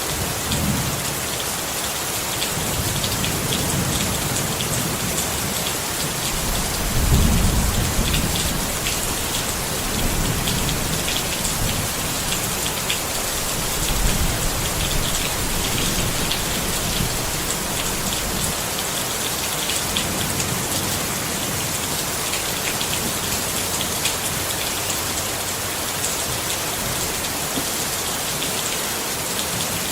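Steady rain drumming on a tent, with low thunder rumbling through the first twenty seconds or so, loudest about seven seconds in and again around fourteen seconds.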